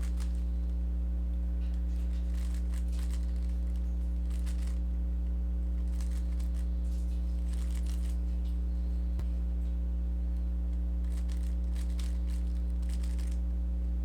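A Rubik's cube being turned in quick runs: faint plastic clicking and scraping in three bursts of a second or two each. A steady low hum lies under it and is the loudest thing throughout.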